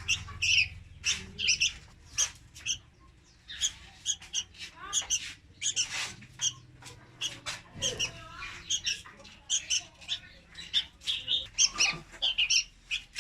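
Juvenile red-whiskered bulbul calling: a string of short, high, scratchy chirps and squawks in quick clusters with brief pauses, the begging calls of a young bird.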